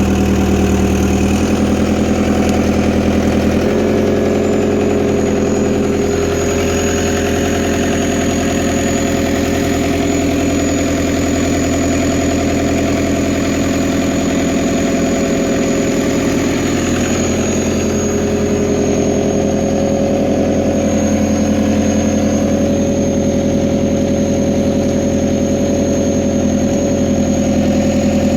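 Fiat Hitachi FH150 excavator's diesel engine running steadily, its note shifting about a second and a half in and again near four seconds, with a rougher, busier stretch between about six and seventeen seconds in, as the tracks are worked under hydraulic load.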